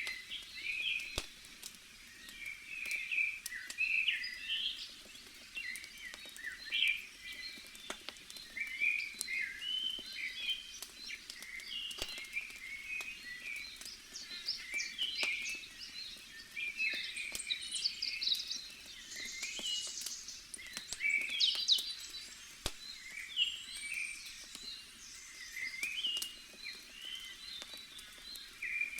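Forest ambience of many short bird chirps that go on without a break, with a few sharp pops from a crackling campfire.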